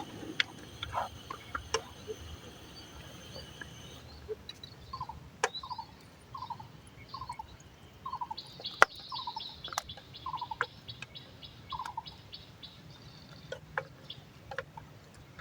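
A bird calling a series of about ten short, evenly spaced notes, roughly one and a half a second, with a higher buzzing trill joining over the later notes. Scattered sharp clicks sound throughout.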